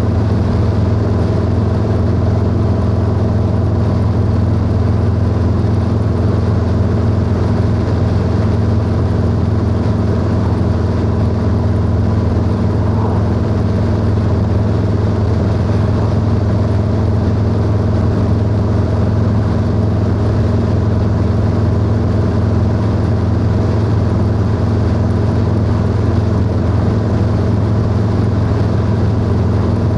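Harley-Davidson Low Rider S Milwaukee-Eight V-twin running through a 2-into-1 exhaust, cruising at a steady speed with an even engine note and road and wind noise.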